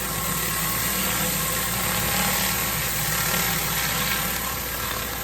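Engine-driven pressure washer running steadily: a constant engine hum under an even hiss of spray.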